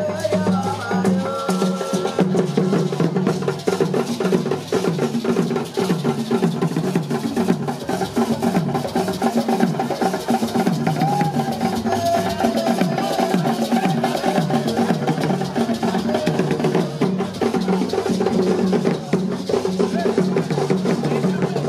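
Drum-led music with fast, continuous percussion, including a sharp wood-block-like knocking, and a wavering melodic line above it.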